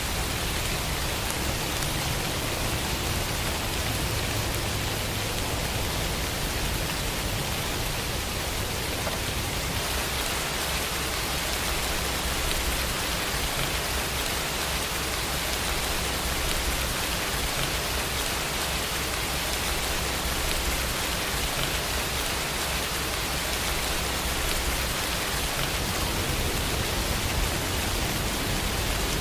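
Steady rain falling, an even hiss that holds at one level throughout, with a low rumble underneath.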